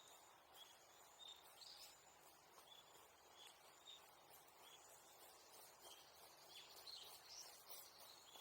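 Near silence: faint rural outdoor ambience with short high chirps repeating about twice a second.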